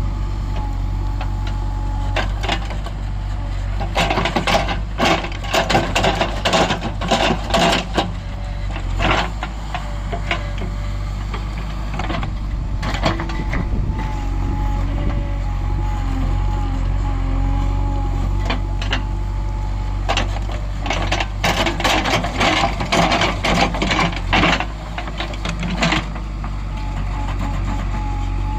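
Heavy diesel vehicle engine running with a steady low drone, broken by two stretches of harsh, irregular clattering noise, one about four seconds in and one about twenty seconds in.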